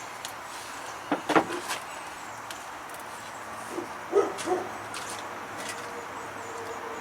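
A dog giving a few short yips, a cluster about a second in and another around four seconds in, over a steady low background hum.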